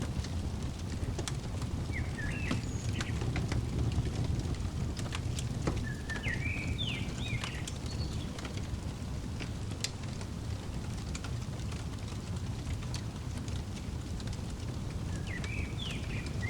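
Wood fire crackling with sharp pops over a steady low rumble. Short bird chirps come a few seconds in, again in the middle, and near the end.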